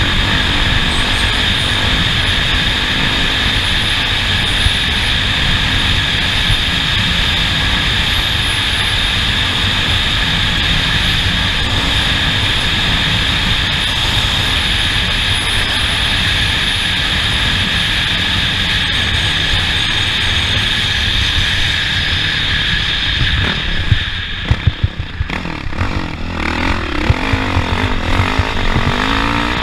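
Off-road race vehicle being driven along a dirt course, engine and wind noise running steadily, with a few sharp knocks and jolts near the end.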